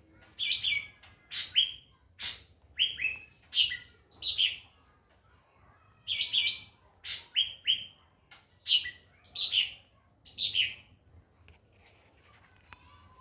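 White-rumped shama (murai batu) singing: two runs of loud, sharp descending notes, each lasting about four seconds, with a pause of over a second between them.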